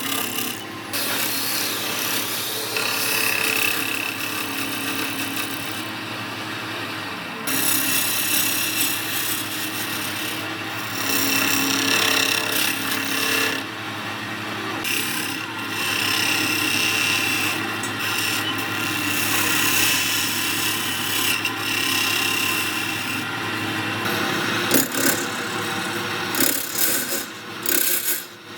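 Wood lathe running, with a tool held against a spinning wood-and-epoxy resin blank: a steady motor hum under a noisy scraping that swells and fades as the tool works. A few sharp knocks come near the end.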